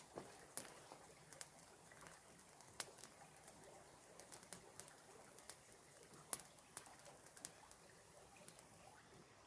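Small campfire crackling: irregular sharp pops and snaps, a few each second, with a louder pop a little past the middle.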